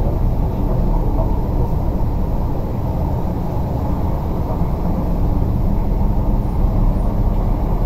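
MTR East Rail Line R-train, a Hyundai Rotem electric multiple unit, running between stations, heard from inside the carriage: a steady low rumble of wheels on track.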